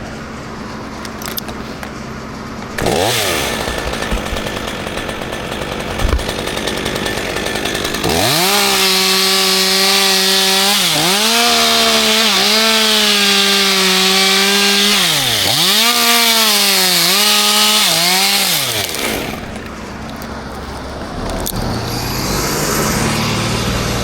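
Chainsaw running at full throttle while cutting wood. It starts about a third of the way in and runs for roughly eleven seconds, and its revs dip and recover several times as the chain bites. It then drops away, leaving a lower engine hum near the end.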